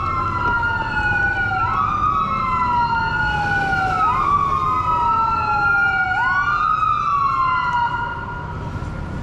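Fire truck siren wailing, each cycle rising quickly and then falling slowly about every two seconds, with a low traffic rumble underneath. It fades out about eight seconds in.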